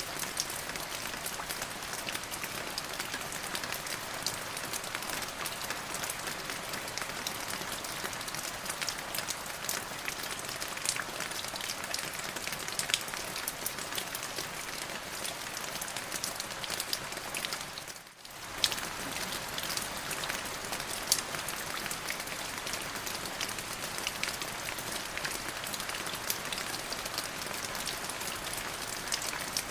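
Steady rain falling on a surface, a constant hiss dotted with many distinct drop hits. About eighteen seconds in the sound briefly fades out and returns.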